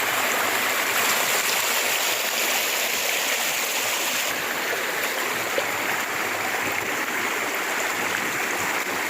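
River water flowing, a steady rushing that holds at an even level.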